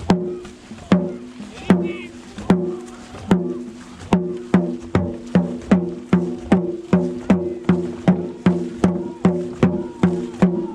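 Dragon boat drum beaten in time with the paddle strokes, the strikes ringing with a low pitch. The beat quickens about four seconds in, from a little over one strike a second to nearly three a second, as the crew picks up the stroke rate.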